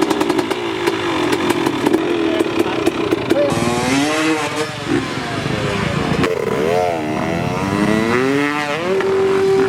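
Dirt bike engine running, then revved up and down several times with the pitch rising and falling, and held at a steady pitch near the end.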